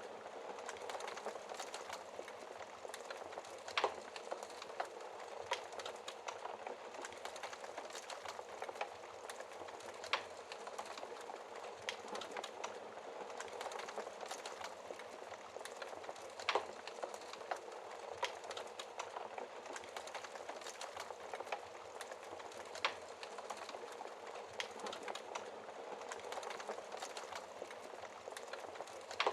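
Wood fire burning in a fireplace, heard through its glass door: a steady hiss full of small crackles, with four sharper pops spaced about six seconds apart.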